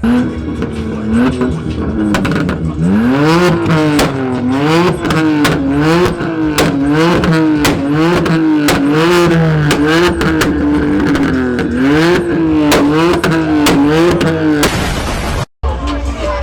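Car engine revved repeatedly in quick throttle blips, its pitch climbing and falling about once every two-thirds of a second. The sound cuts out briefly near the end.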